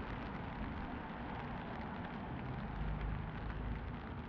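Steady rain falling on a street, a fine patter of many small drops, with a low hum of traffic underneath.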